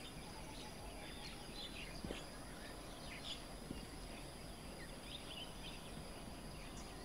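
Faint open-air ambience: a steady hiss with a thin high tone, and scattered short chirps of small birds.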